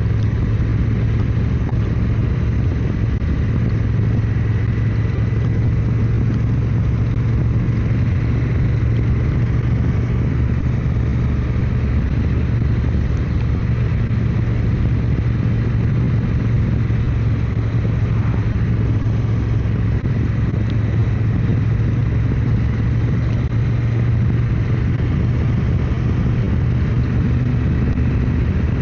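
Motorcycle engine running steadily at cruising speed, with a constant low hum and an even rush of riding noise.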